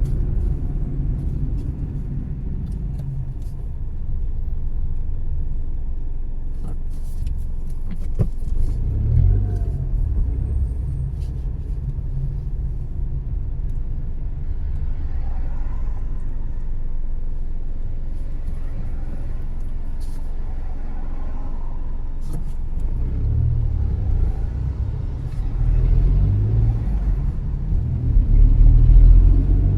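A car driving: steady low rumble of engine and tyre noise, with a few light clicks and swelling louder twice near the end.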